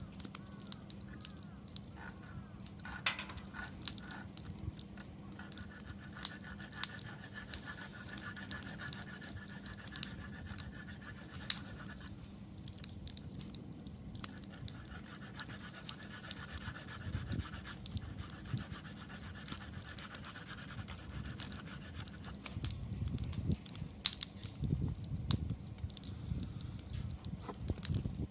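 Wood campfire burning, with frequent sharp crackles and pops from the burning wood over a low rush of flame that swells louder near the end. A thin hiss runs through long stretches in the middle.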